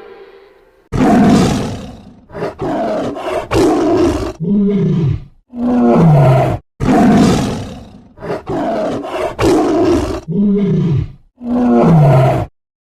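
A large animal calls loudly in a long series of harsh, rasping calls separated by short breaths, some of them falling in pitch.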